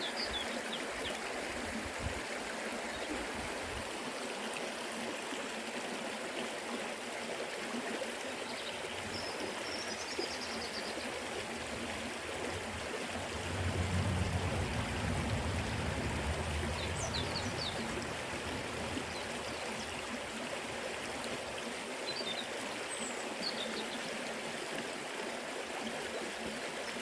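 Forest river flowing, a steady rushing and babbling of water, with a deeper, slightly louder rush swelling for a few seconds about halfway through. A few faint, short high chirps come through now and then.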